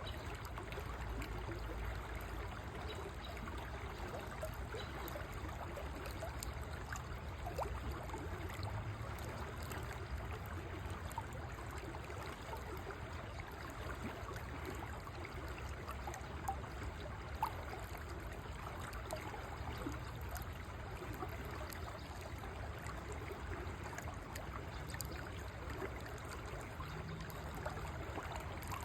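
River water flowing steadily over stones, a continuous rushing and trickling with a low rumble beneath.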